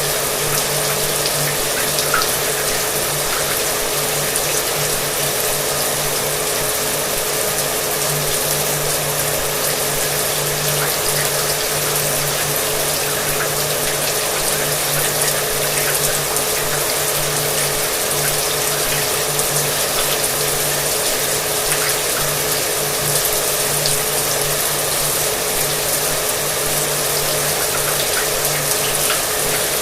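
Shower water spraying steadily together with a hair dryer running: an even hiss of falling water over the dryer's steady motor hum, with scattered faint ticks.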